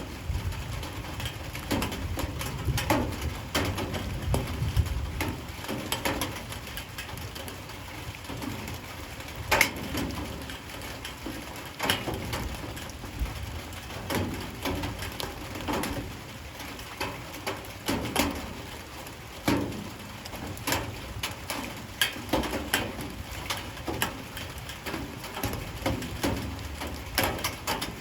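Light rain, with drops and drips tapping irregularly on hard surfaces, a few taps standing out louder than the rest.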